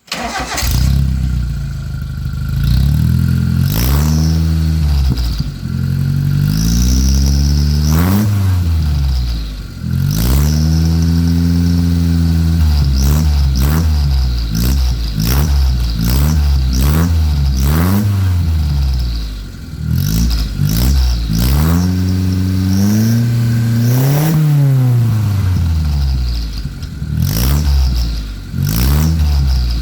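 Petrol car engine, likely a Suzuki Futura, revved over and over through an aftermarket oval 'cung' exhaust. Its note climbs and drops with each throttle blip: a few longer revs at first, then many quick blips in a row from about halfway through.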